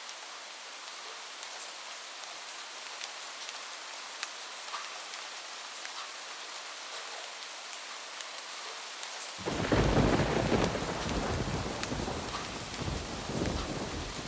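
Steady rain on a roof with scattered drop ticks; about nine seconds in, a thunderclap breaks in suddenly, loud and deep, and rumbles on, slowly fading.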